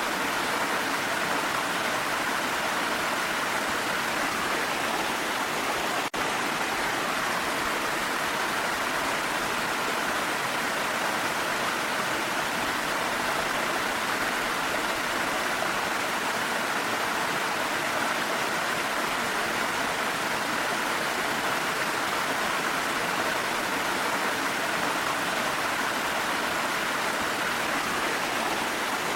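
Steady rushing of a waterfall, an even unbroken water noise, with a momentary dropout about six seconds in.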